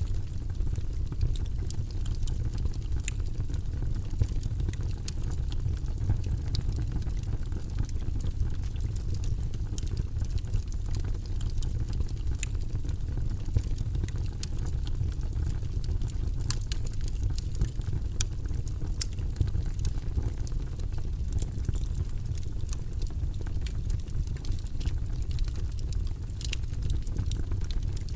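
Wood fire crackling in a fireplace: a steady low rumble of flames with frequent sharp crackles and pops.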